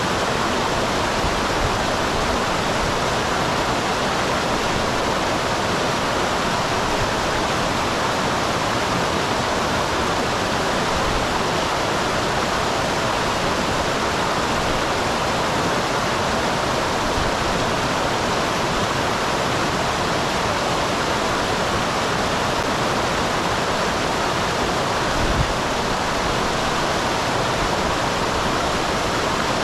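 Small waterfall on a mountain stream: a steady rush of falling and running water, with one brief low thump about 25 seconds in.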